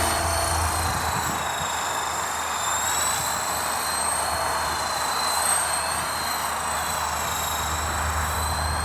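Remote-controlled model helicopter in flight, its electric motor and rotor giving a steady high whine that wavers slightly in pitch.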